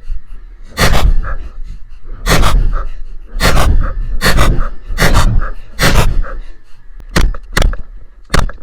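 A string of about ten single gunshots, fired irregularly roughly once a second, each a sharp crack with a short echo.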